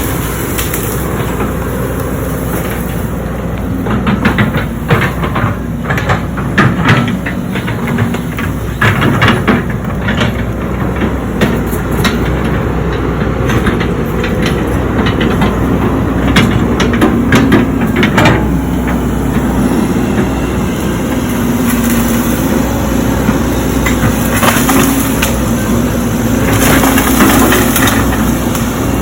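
Heavy digging machine's diesel engine running steadily, with repeated cracks and knocks of material being broken and crushed. The knocks cluster in the first half, and the engine grows louder near the end.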